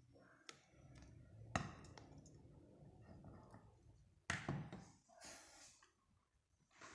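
A few faint clicks and knocks, the sharpest about one and a half seconds in and two more a little after four and five seconds, over a faint low hum.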